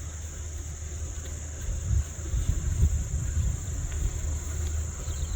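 Insects trilling steadily at a high pitch across an open pasture, over an uneven low rumble such as wind on the microphone.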